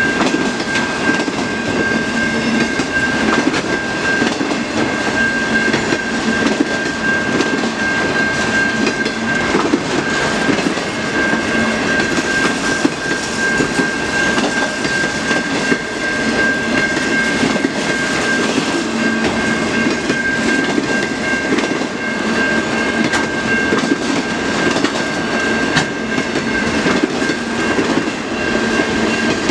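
Freight cars of a CN mixed freight train rolling past, their wheels clattering over the rail joints in a steady, continuous rumble. A steady high ringing tone holds over the noise throughout.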